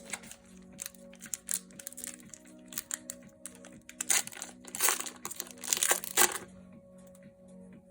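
Foil booster-pack wrapper crinkling and tearing open in bursts, loudest from about four to six seconds in, over soft background music.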